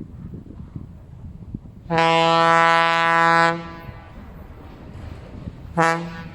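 Locomotive horn: one long steady blast of about a second and a half, then a short blast near the end, both on the same single pitch, over a low rumble.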